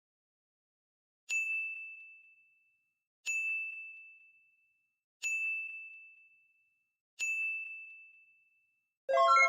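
Four identical high ding chimes, about two seconds apart, each ringing out and fading away. Near the end a brighter chime of several notes begins.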